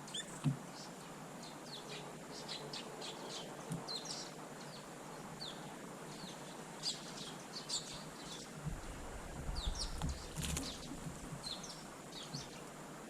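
Small garden birds chirping, many short high chirps in quick succession. A soft thump comes about half a second in, and a brief rustle near the end.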